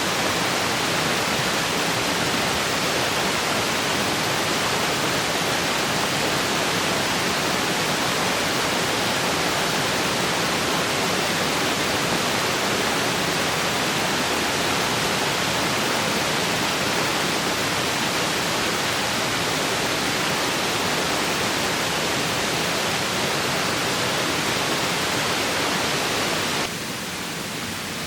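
Steady rush of flowing river water. It drops abruptly to a quieter hiss shortly before the end.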